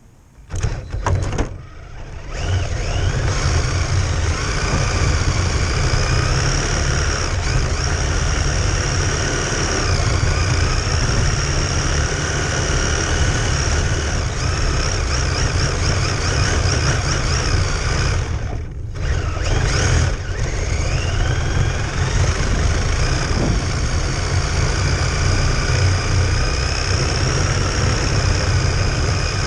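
A radio-controlled car's motor running hard, its whine rising and falling with the throttle over a heavy low rumble. The sound starts abruptly just after the start and cuts out briefly twice: once near the start and once about two-thirds of the way through.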